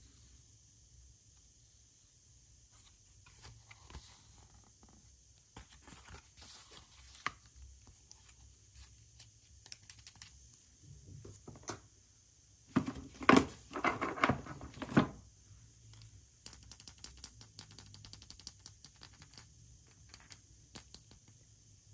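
Hands handling and tearing wrapping, with scattered small clicks, taps and crinkles. A louder burst of tearing and rustling comes a little past halfway through and lasts about two seconds.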